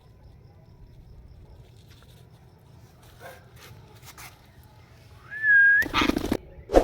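Indian ringneck parrot calls: a short, bending whistle, then a loud, harsh screech about six seconds in, and another sharp squawk at the very end, with a few faint clicks before them.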